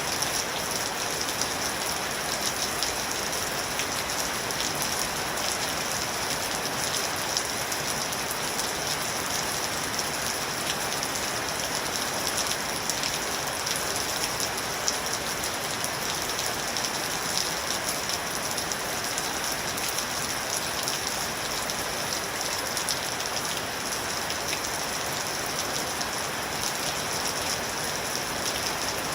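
Steady rain falling, an even hiss with fine patter of individual drops hitting a surface.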